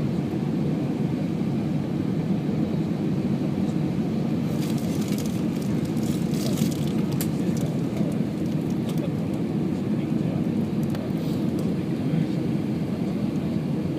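Steady low rumble of an Airbus A319's engines and rushing air heard from inside the passenger cabin, with a cluster of faint rattles and clicks about five to seven seconds in.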